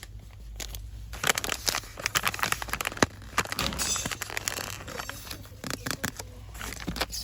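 Fast close-up crinkling and crackling of shop items and their packaging being rustled and handled, as a dense run of small clicks and crackles.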